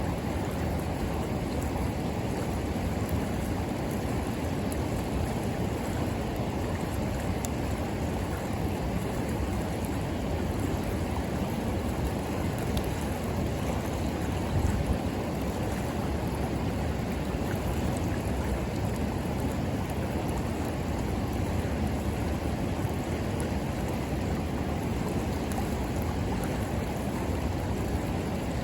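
A river flowing steadily, with a few faint crackles from a wood campfire and one slightly louder pop about halfway through.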